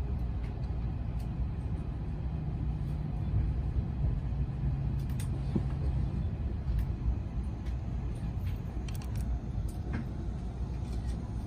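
Cabin noise aboard an N700S Shinkansen: a steady low rumble of the train running, with a low steady hum for a few seconds in the first half and a few faint ticks.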